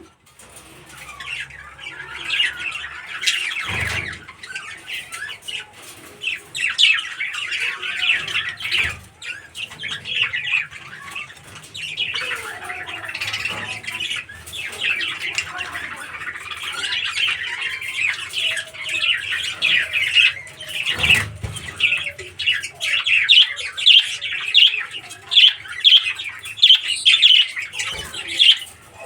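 A group of small birds chirping and squawking in a continuous, rapid chatter that grows louder in the last few seconds, with a few knocks now and then.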